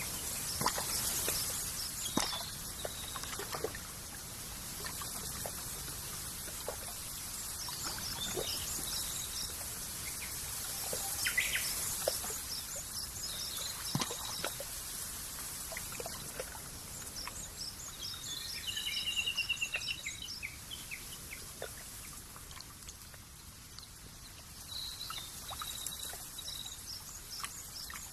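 Countryside nature ambience: small birds chirping in quick repeated series and a short trill, over a steady high hiss, with trickling water and scattered drips.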